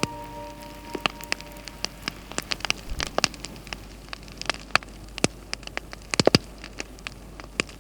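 Sparse, irregular crackling clicks, a few to several a second, some in quick clusters, over a faint steady hiss.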